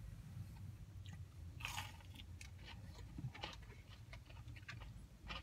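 A person biting into a crispy breaded Burger King chicken tender, with a crunchy bite about two seconds in, then chewing it with small crackles of the breading.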